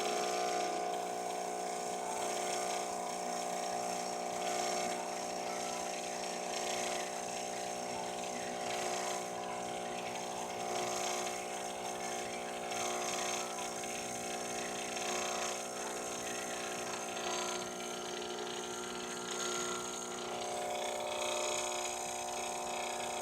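Starbucks Verismo pod coffee machine's pump running steadily with an even hum while it brews a full cup.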